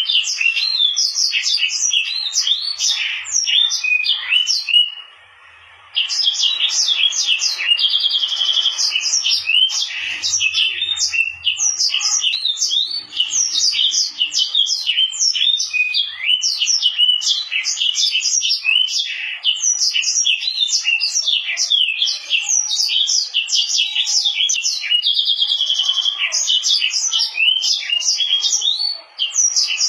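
Hybrid of a Mozambique (yellow-fronted) canary and a domestic canary singing a long, fast song of rapid high chirps and buzzy trills, with a brief break about five seconds in.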